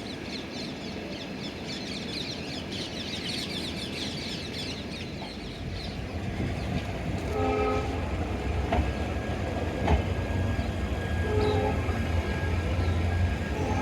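Birds chirping rapidly over the first few seconds. Then a train's rumble builds and grows louder, with short blasts of a locomotive horn about seven and a half seconds in, again a few seconds later, and near the end.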